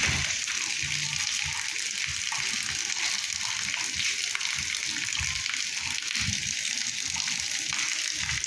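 Steady rain falling, a constant hiss of drops, with irregular dull low taps of water dripping from a roof leak.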